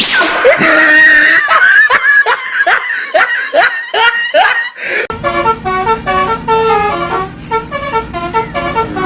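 A telolet-style musical bus horn plays a tune of stepped notes through the second half. It is preceded by a burst of laughter with quick repeated rising swoops.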